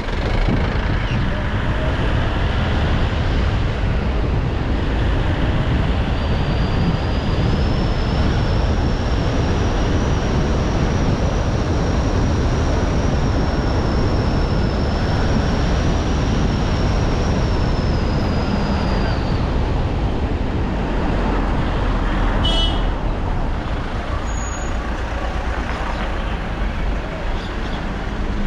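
Steady road and engine noise of a car driving, a dense low rumble. A thin high whistle holds for about thirteen seconds in the middle, and a brief sharp sound comes about 22 seconds in.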